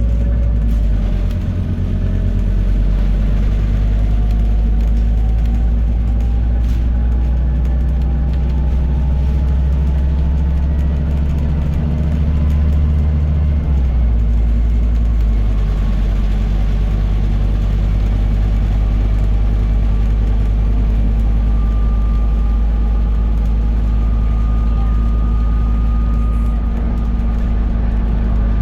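Scania N280UD bus engine and driveline running under way, heard from inside the bus: a steady low drone with a faint whine rising slowly in pitch as the bus gathers speed, the drone changing about halfway through and the whine rising again near the end.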